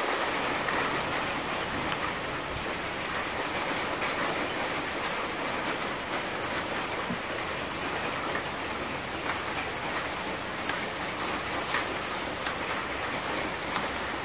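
Sausage frying in a pot over a soda-can alcohol stove: a steady sizzle with a few sharp crackles.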